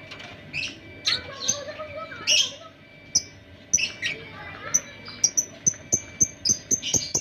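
Lovebirds chirping and chattering in a colony aviary. A few loud, harsh calls come first, then a quick, evenly spaced run of high chirps in the second half.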